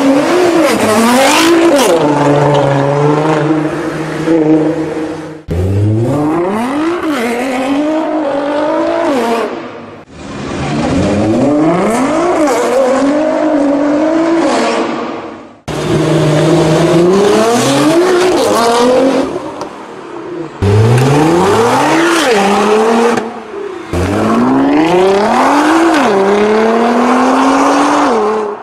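Nissan GT-R R35 twin-turbo V6 engines accelerating hard, revs climbing and dropping back at each gear change, in about five separate clips cut together.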